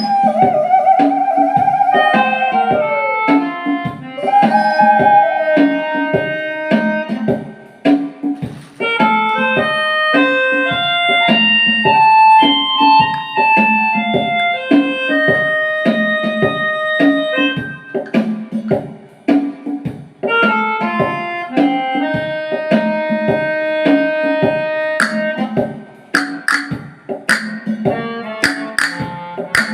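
Melodica playing a melody of held notes over a steady hand-drum beat, with sharp, bright percussion strikes coming in over the last few seconds.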